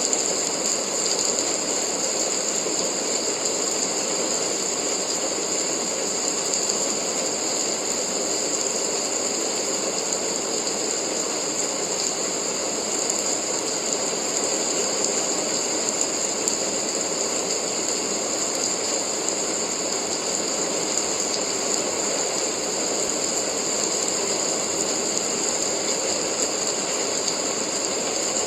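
Steady rain sound used as white noise: a dense, even hiss that never lets up, brightest high up.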